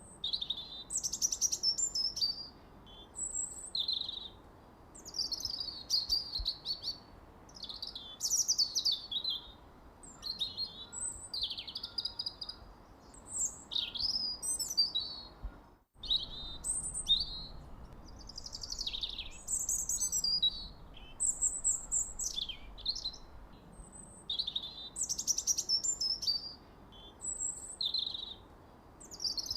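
Songbirds chirping and twittering in a steady stream of short, high, quick phrases and trills, one following another with hardly a pause. About halfway through the sound cuts out for an instant.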